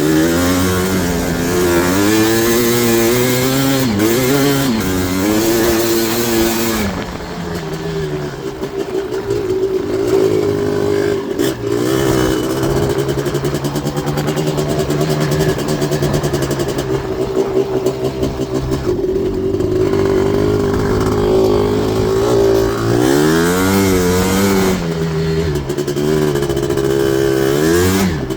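Yamaha Blaster ATV's single-cylinder two-stroke engine, bored out to 240cc and fitted with an FMF exhaust, under throttle. It revs up and down over the first several seconds, runs at a steadier, lower pitch through a long middle stretch, then revs up and down again near the end.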